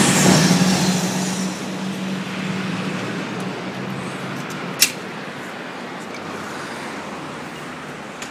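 A motor vehicle passing close by, its engine hum and tyre noise loudest at the start and fading away over several seconds. A single sharp click about five seconds in.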